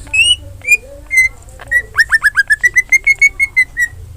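Cucak ijo (green leafbird) singing loudly in full song. A few separate clear whistled notes come first, then about two seconds in a rapid run of a dozen or so short whistles. The first few whistles slide downward and the rest sit on an even pitch.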